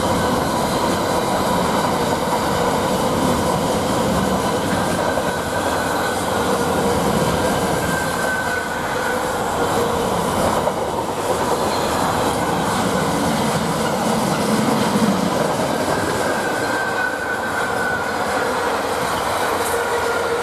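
Freightliner freight train hauled by a Class 66 diesel locomotive passing through the station, its wagons rumbling and clattering over the rails with a steady high wheel squeal.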